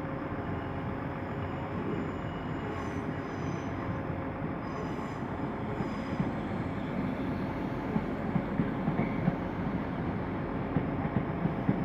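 Merseyrail Class 508 electric multiple unit running slowly into the platform, with faint high wheel squeals a few times in the first half.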